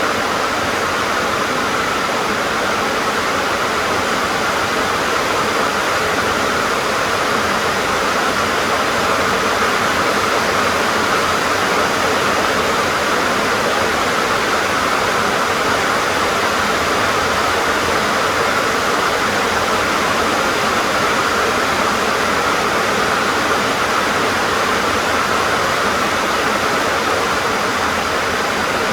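Heavy rain drumming steadily on a tin (sheet-metal) roof, a dense even hiss with no single drops standing out.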